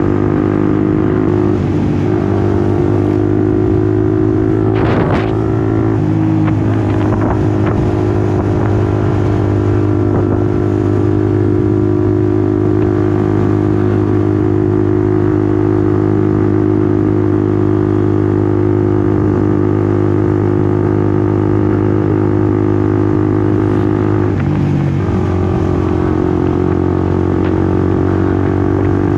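Honda CBR150R's single-cylinder engine running at steady revs under way. Its note shifts briefly about five seconds in and again a few seconds before the end.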